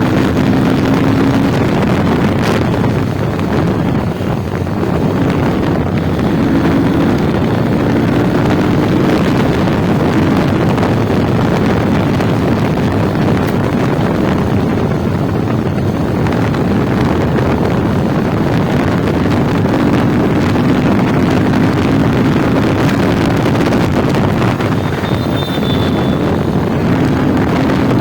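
Motorcycle running at road speed, heavy wind rushing over the rider's microphone, with the engine's note coming through the wind now and then.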